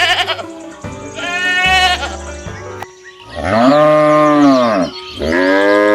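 Sheep bleating three times, the last two long calls rising and falling in pitch, over background music.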